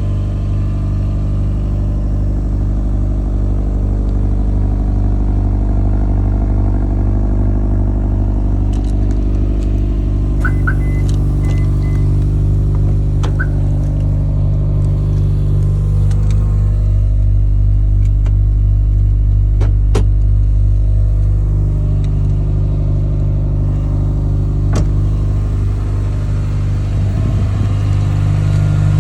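Subaru EJ257 2.5-litre turbocharged flat-four running steadily at idle on a cold start. A few short high beeps sound about ten to twelve seconds in, with scattered clicks.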